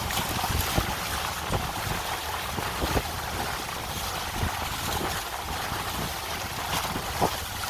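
Water rushing and splashing along the hull of a small sailboat under sail, with wind buffeting the microphone in low gusty rumbles.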